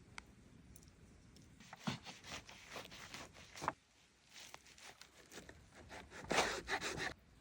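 Crusty charcoal-baked pide bread being torn by hand, with crisp tearing and crunching in short irregular bursts: one group a couple of seconds in and a louder one near the end.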